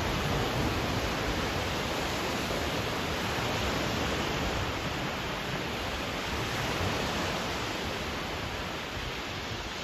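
Black Sea surf: a steady, unbroken rushing wash of waves.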